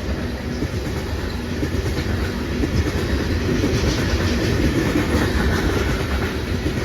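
A train rolling past close by, its wheels clattering over the rail joints with a steady rumble that grows a little louder partway through.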